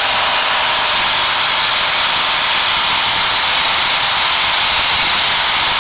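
Steady loud hiss of static over a Piper PA-28's intercom, with the aircraft engine at full climb power underneath. The passenger microphone is breaking into static as the engine RPM rises, a fault loud enough to drown out air traffic control.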